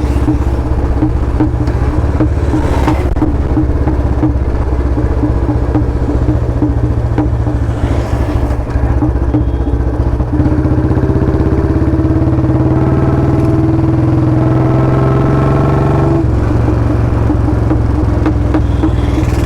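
Royal Enfield Bullet 350's single-cylinder engine running loud through a free-flow, unbaffled L-bend long Punjab exhaust while riding. About ten seconds in the pitch rises steadily as the bike accelerates, then falls back around sixteen seconds in.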